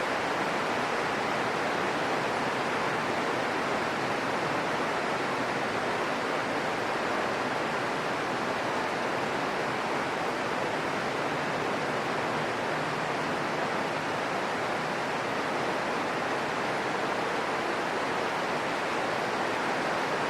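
Steady rain falling: an even hiss that holds the same level throughout.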